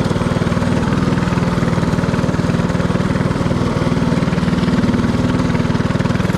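Mini-bike's Predator 224cc single-cylinder four-stroke engine running steadily under way, a rapid, even chugging of firing pulses.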